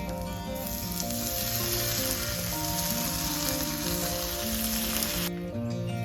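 Food sizzling in a hot pan, a dense steady hiss that starts suddenly about half a second in and cuts off near the end, over background music.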